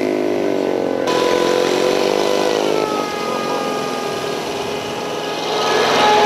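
Small dirt bike engine running with a buzzy note, its pitch sliding down and back up as the throttle changes, and getting louder near the end.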